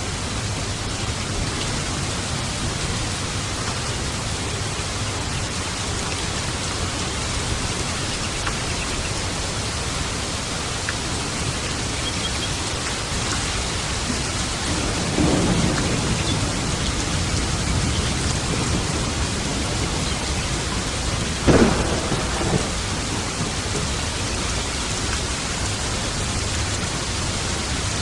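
Steady rain with thunder: a low rumble a little past the middle, then a sharper, louder thunderclap about three quarters of the way in that rolls off over the next second.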